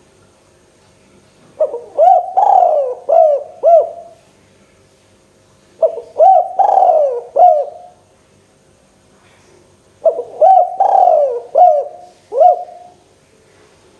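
Spotted dove (tekukur) cooing: three phrases of four or five short arching coos each, about four seconds apart.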